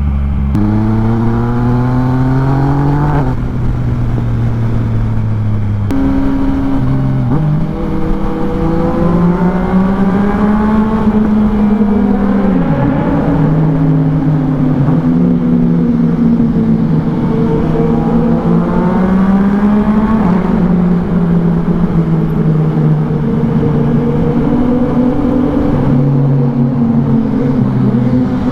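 Yamaha MT-09's three-cylinder engine through an Akrapovic exhaust while riding, the revs climbing and dropping repeatedly as the rider accelerates and changes gear.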